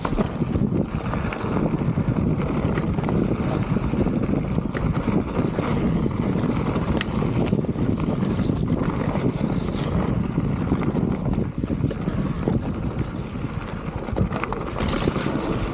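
Mountain bike riding down a dirt trail: steady wind buffeting the microphone over the rumble of tyres, with scattered clicks and knocks from the bike rattling over roots and bumps.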